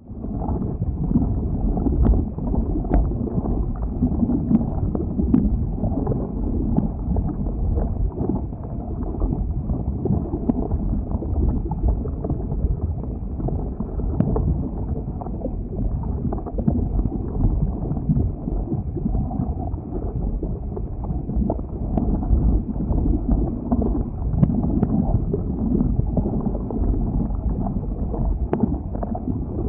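Lava flow: a steady low rushing noise with occasional faint sharp crackles, starting abruptly from silence.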